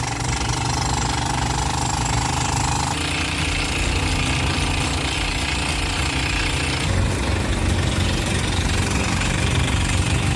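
Bulldozer working under load: its diesel engine runs with a dense, steady rapid rattle and clatter. The sound shifts in character about 3 seconds in and again about 7 seconds in.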